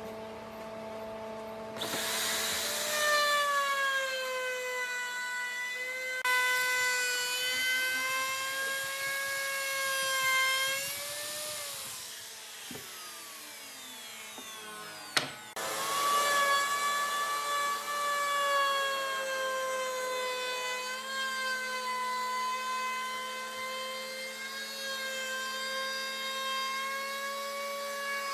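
An electric power tool working wood: its motor whines steadily, the pitch sagging and recovering a little as it takes load. About halfway through it winds down with a falling pitch; a sharp click follows and the tool starts up again.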